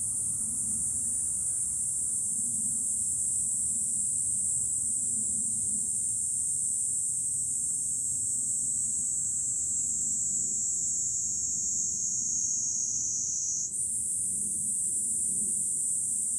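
Cicadas singing in a steady, high, shrill drone; about 14 seconds in, a fresh song starts up sharply and the sound steps up a little in pitch.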